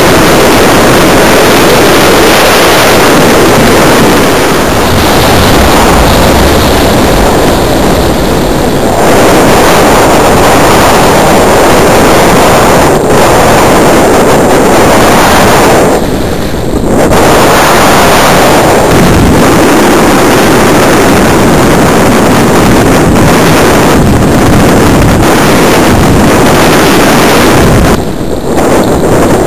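Loud wind rush from air streaming over the microphone of a camera carried on a Simprop Hurricane electric RC glider in flight, easing briefly a few times.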